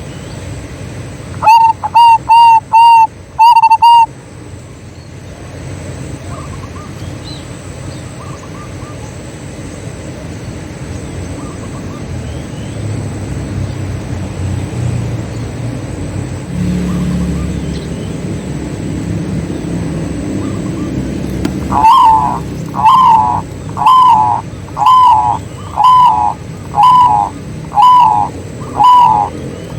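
Zebra doves (perkutut) calling. About a second and a half in comes a quick run of five short, loud coos. Near the end comes an evenly spaced series of coos, about one a second, each bending down in pitch. In between, a low background rumble rises and falls.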